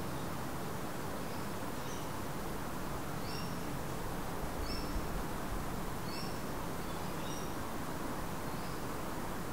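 Short, high bird chirps, a few every second or so, over a steady background hiss.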